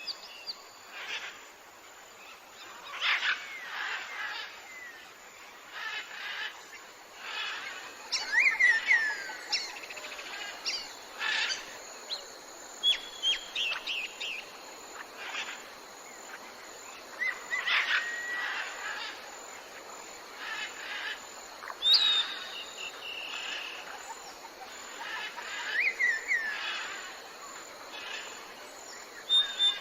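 Several songbirds singing and calling: short sweeping whistles and chirps that come every second or two, over a faint steady hiss.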